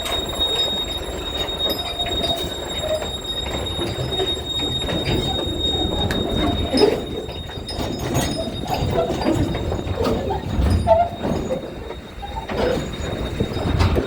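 Steel ferry and harbour machinery at its berth: a continuous low rumble with irregular metallic clanks and short squeals, over a steady high whine.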